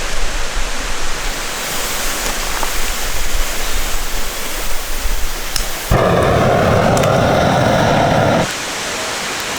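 Steady rushing of a valley stream. Past the middle, a louder, deeper rushing noise starts and stops abruptly and lasts about two and a half seconds.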